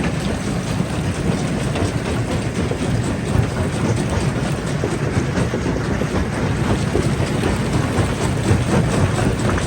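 Stone crusher running under load, a steady low churning dense with irregular rattles and cracks of rock being crushed.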